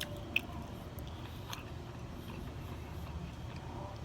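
Close-up mouth sounds of someone chewing and smacking on Popeyes fried chicken, with a few short, sharp crunches of the crust, over a steady low background rumble.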